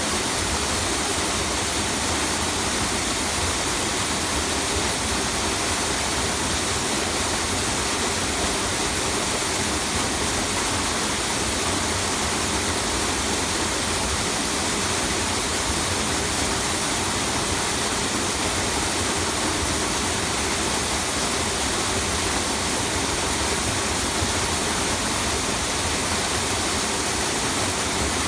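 A tiered waterfall's water falling and splashing: a steady, unbroken rush.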